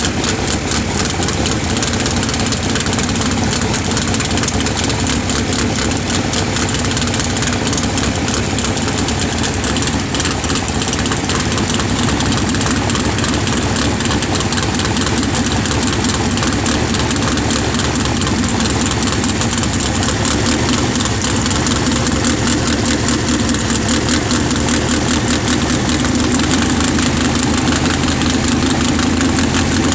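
Pro Street drag race car engine idling loud and steady, a fast, rough rumble without pauses.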